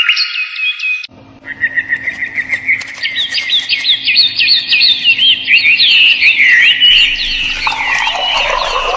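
Songbirds chirping rapidly in many short, quick notes over a low steady hum, after a different tonal sound cuts off about a second in. Lower calls join near the end.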